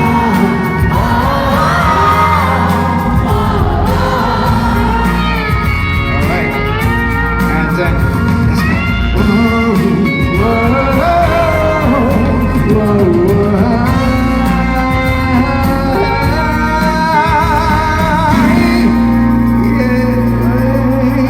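Live band playing a pop song with singing over it, loud and continuous. Near the end a low chord is held steady under the voice.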